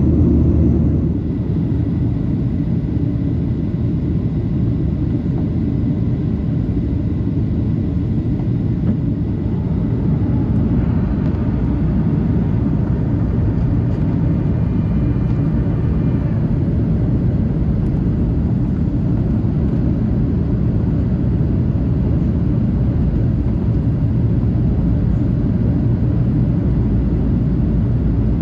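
Steady low rumble of a Boeing 737-800's engines and airflow heard inside the passenger cabin. A faint high whine comes and goes about halfway through.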